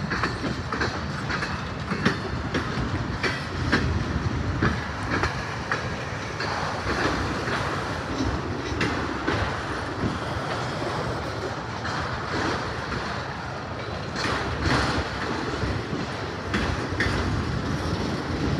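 Freight train cars (autoracks, covered hoppers and tank cars) rolling past close by: a steady rumble of steel wheels on rail, broken by irregular clicks and clanks.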